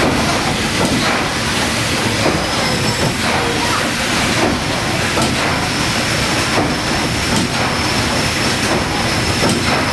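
Paddle steamer Waverley's triple-expansion steam engine running steadily: a dense mechanical noise with hiss and faint knocks, and a thin high whine that comes in about two seconds in and carries on.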